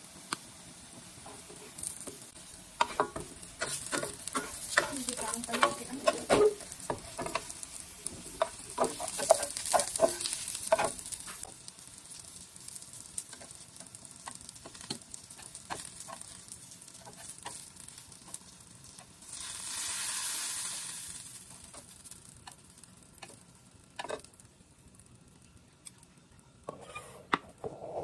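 Eggplant pieces sizzling as they fry in oil in a pan, with a wooden spatula scraping and knocking against the pan as they are turned and lifted out, mostly in the first half. A short, louder sizzle comes about twenty seconds in.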